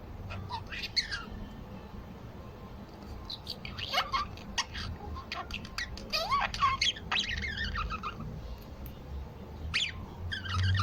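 Birds calling: several short runs of chirps and gliding calls, in about four bouts, over a steady low hum.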